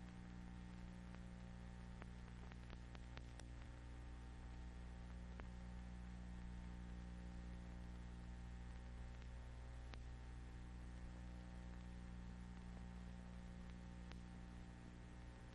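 Faint steady hum with a low hiss and scattered clicks and crackles: the noise floor of an old film's soundtrack between title music and narration.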